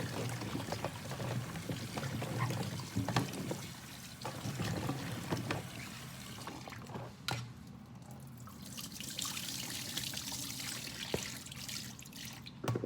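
Tap water running and trickling into a bowl of cut vegetables as they are rinsed by hand, with a few knocks from the pieces and the bowl being handled. The water runs harder for the last few seconds.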